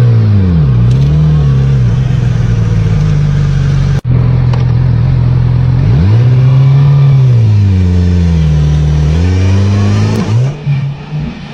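Motorcycle engine running, its pitch dropping and climbing again as the bike slows and speeds up. There is a sudden break about four seconds in.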